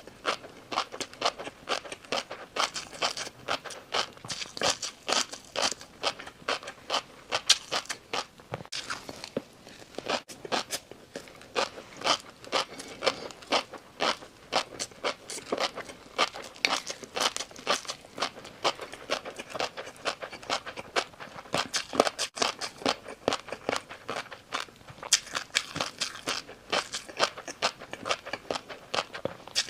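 Close-miked chewing of crunchy food: a rapid, continuous run of crisp cracks, several a second.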